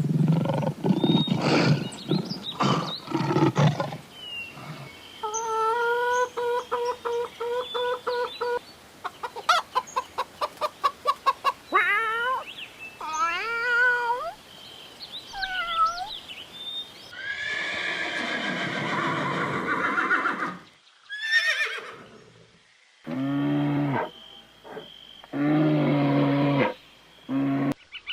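A run of different animal calls played one after another in short clips, starting with a few seconds of low, rough calls, then pitched repeated calls, a quick run of pulses, rising calls, and a series of lower pitched calls near the end.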